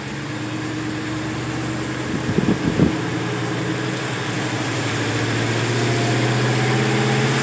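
Car engine running steadily, heard from inside the cabin, slowly growing louder, with a short burst of higher sounds about two and a half seconds in.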